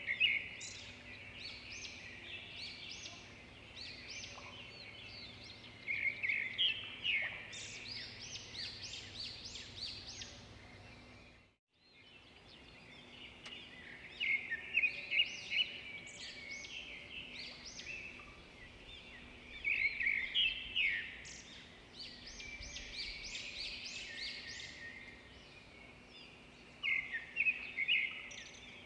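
Swiftlets twittering in dense bursts of rapid, high chirps that swell and fade every few seconds, with a brief break about twelve seconds in.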